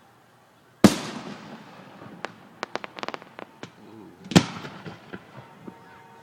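Aerial fireworks shells bursting close overhead: a loud boom about a second in that echoes as it fades, then a quick run of about ten sharp crackling pops, and a second loud boom a little past the middle.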